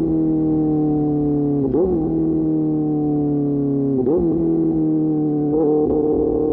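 QJ Motor SRK600's inline-four engine running through an SC-Project exhaust while riding, its pitch sinking slowly. It is broken three times by a brief wobble in pitch.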